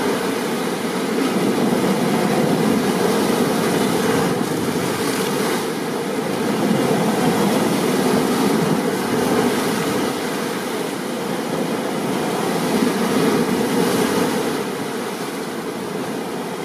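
Steady noise of heavy rain and stormy ocean surf, swelling and easing gently every few seconds.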